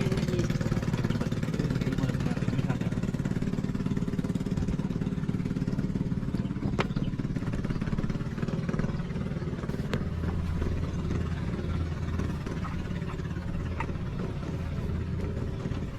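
Small motorcycle engine running steadily, with a deeper steady hum joining about ten seconds in and a few sharp clicks.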